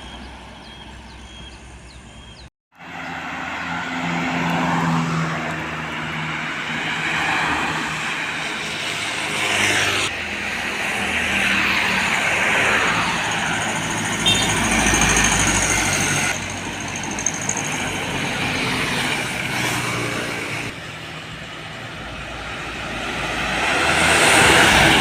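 Heavy road vehicles, trucks and buses, driving past one after another with diesel engine and tyre noise, the pitch falling as each goes by. The sound breaks off briefly about two and a half seconds in, and the loudest pass swells up near the end.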